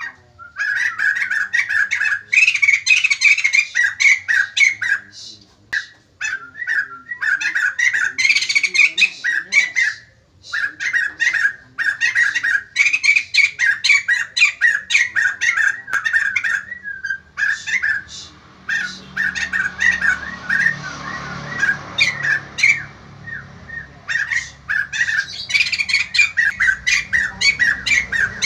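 White-crested laughingthrush giving its loud, rapid chattering call in long runs of quick notes, broken by brief pauses three times.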